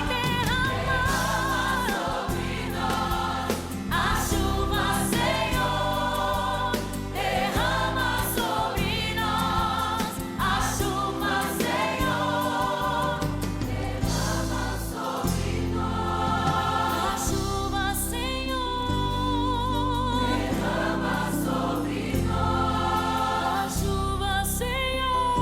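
Gospel worship song: a choir and voices singing over a full band accompaniment, with held notes sung with vibrato in the later part.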